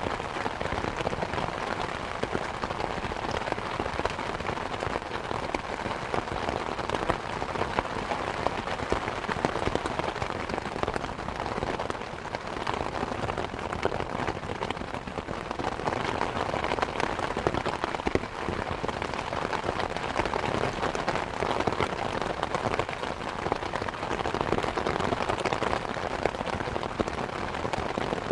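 Steady rain falling, mixed with the crackle and pops of a wood fire in a fireplace.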